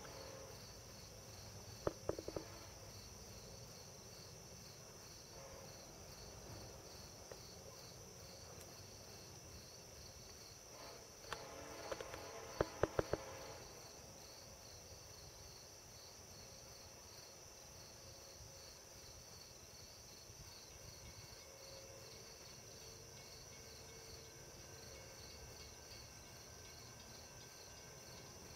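Crickets chirping steadily in a high, evenly pulsing chorus, with a few short clicks about two seconds in and again around twelve to thirteen seconds in.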